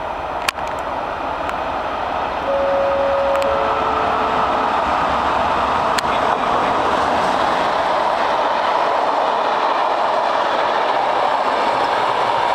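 Train running on the tracks, a steady rushing rumble that grows louder about two and a half seconds in and then holds. Brief steady tones sound around then, and there are a couple of sharp clicks.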